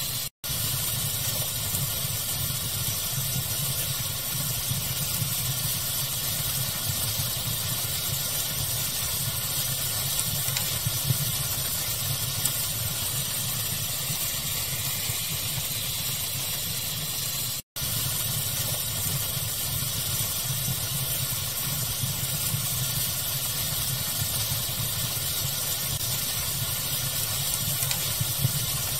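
Steady pink-noise hiss and rumble with a fire crackling, small pops scattered through it. The sound cuts out for an instant twice, once about half a second in and once near the middle.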